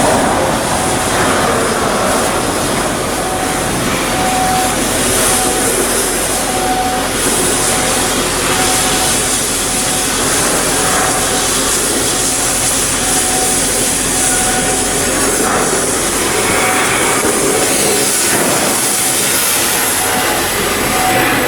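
Loud, steady shipbuilding work noise: a dense mechanical rumble and hiss, with a short tone repeating every second or two.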